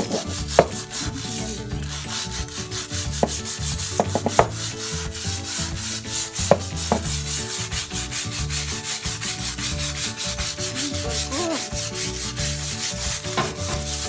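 Stiff-bristled scrub brush scrubbing wet ceramic floor tiles in quick, steady back-and-forth strokes, with a few sharper knocks as it hits the floor. The tiles are being scrubbed with diluted bleach to lift dark stains.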